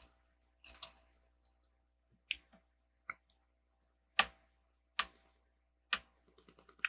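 Plastic Lego bricks clicking as pieces are handled and pressed together: single sharp clicks about once a second, the loudest about four seconds in, then a quicker run of small clicks near the end.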